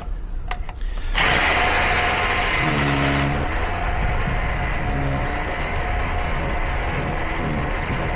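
A few light clicks, then about a second in a loud, steady mechanical running noise starts suddenly and carries on, like a motor or engine running.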